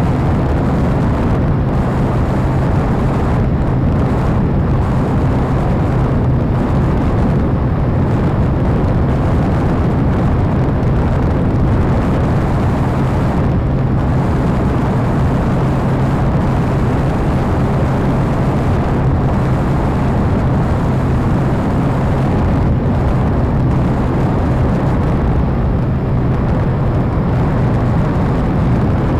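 Radio-control model airplane's engine and propeller running at a steady pitch in flight, with heavy wind rush over the microphone.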